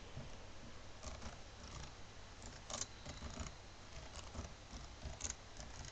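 Faint scratching and light taps of a pen writing on an electronic blackboard, in short scattered strokes.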